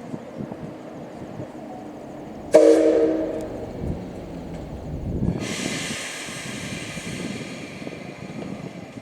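A locomotive whistle gives one short, sudden blast that fades within about a second. Then, about five seconds in, a long hissing rush starts and slowly dies away.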